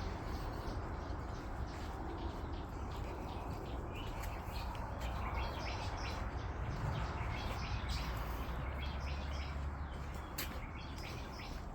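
Several birds chirping and calling in short, scattered notes, over a steady low rumble.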